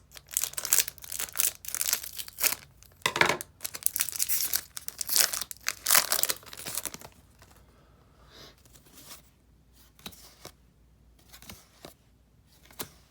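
Plastic booster pack wrapper being torn open and crinkled, in loud rustling bursts for about seven seconds, then only faint scattered rustles and clicks.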